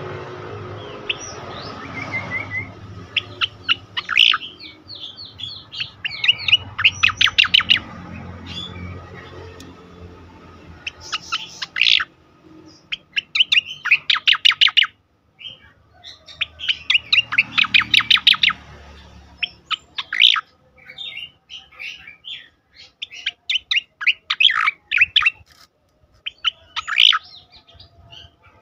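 Sooty-headed bulbul (cucak koreng) singing its fast "tembakan" phrases: bursts of rapid, sharp, high notes fired in quick succession, repeated every second or two with short pauses between.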